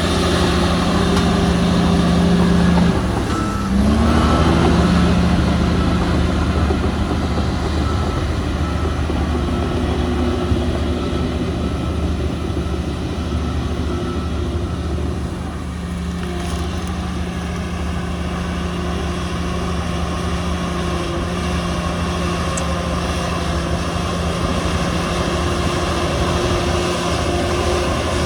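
Heavy diesel earthmoving machinery running steadily; about three seconds in the engine note dips and rises again as it revs. A short repeating beep sounds for a few seconds after that.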